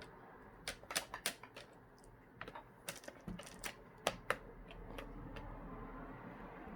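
Irregular light plastic clicks and taps, about a dozen in the first four seconds, then fainter: a laptop's clipped plastic screen bezel being worked and pried loose from the display lid.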